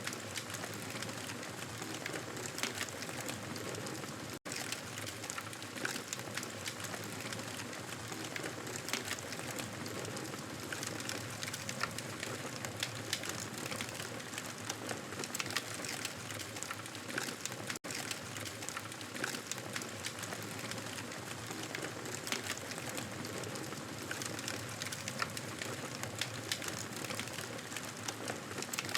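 Campfire crackling steadily, with many small pops and snaps over a soft hiss. The sound cuts out for an instant twice.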